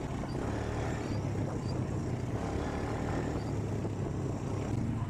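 Motor vehicle engine running steadily with a low hum and road noise while driving.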